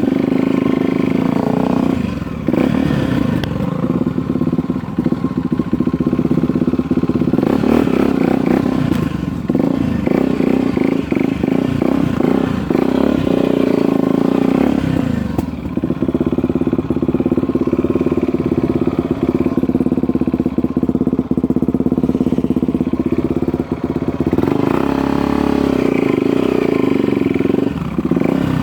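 Dirt bike engine running under way. Its note holds steady for long stretches and drops and rises a few times as the throttle is eased and opened again, with scattered knocks and rattles.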